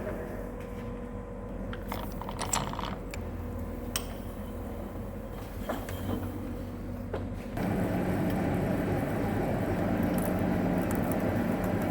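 Machine-shop work on a large lathe: light metallic clinks and scrapes over a low machine hum, which steps up and grows louder about two-thirds of the way through, then runs steadily.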